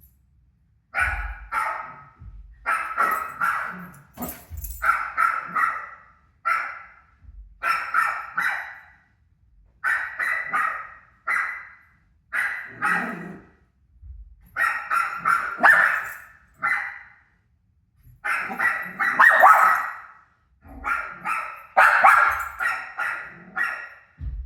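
A dog barking over and over in runs of short, sharp barks, starting about a second in, with brief pauses between the runs.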